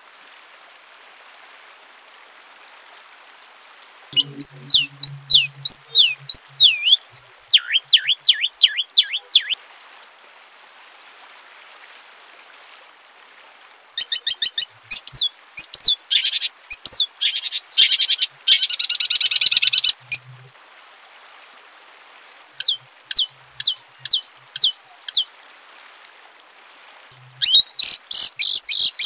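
Songbird song in separate phrases: a run of quick, high, downward-sweeping whistled notes, later a dense rapid chattering trill, then a short series of sharp notes, and a loud new phrase near the end. A faint steady hiss fills the gaps between phrases.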